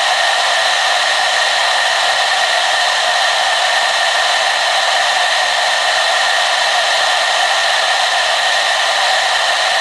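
Hair dryer running steadily: a constant rush of air with little bass and a few steady whining tones in it.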